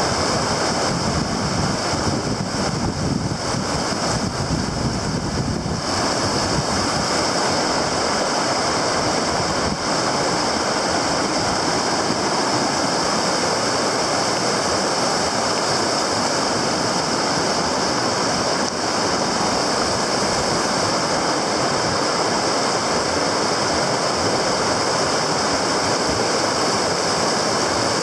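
River water rushing steadily, with wind buffeting the microphone for the first few seconds.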